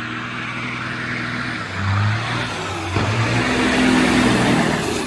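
Car driving: a steady low engine hum under road and tyre noise, swelling briefly about two seconds in, with a short knock near three seconds.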